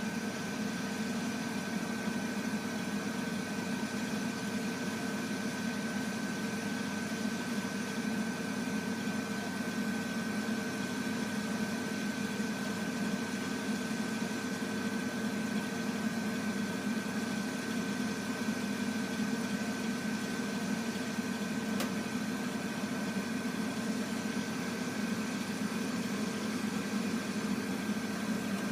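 Heating boiler humming steadily, a constant low drone with a high whine above it. This is the unwanted hum the owner is complaining about. A faint tick comes once, about two-thirds of the way through.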